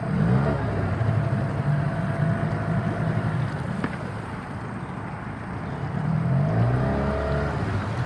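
Small 8-horsepower outboard motor running in gear and labouring against a strong current, hardly moving the boat. Its pitch and loudness rise twice, once just after the start and again about six seconds in, with a single sharp click near the middle.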